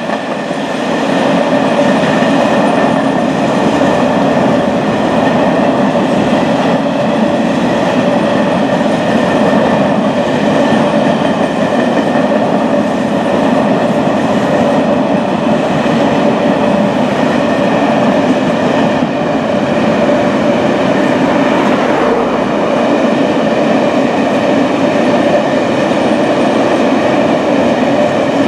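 A train running at steady speed: a continuous loud rumble with a few steady humming tones in it, swelling about a second in and then holding even.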